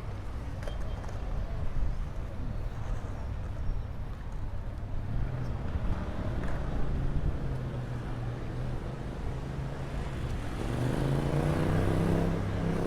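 Motor traffic rumbling steadily. A vehicle engine passes close about ten seconds in, rising in level and bending in pitch as it goes by.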